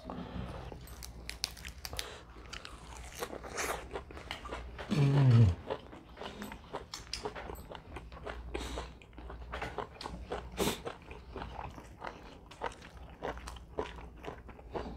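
Close-miked mouth sounds of people eating roast chicken and lettuce leaves: a steady scatter of small crunches, bites and wet chewing smacks. About five seconds in, a short low hummed voice sound falls in pitch and is the loudest moment.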